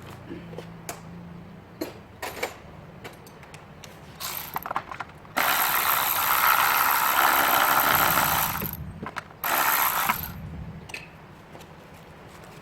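Scattered metallic clicks and ratcheting of hand tools, then two blasts of compressed air hissing, one lasting about three seconds and a shorter one a second later.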